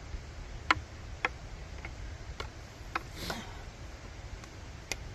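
Sharp taps, about two a second for a couple of seconds, then one more near the end: a copper penny being tapped into a crack in a rock face.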